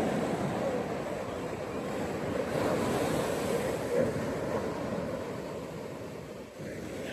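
Ocean waves breaking on a beach, a steady wash of surf that swells about two and a half to four seconds in, then ebbs and drops off shortly before the end.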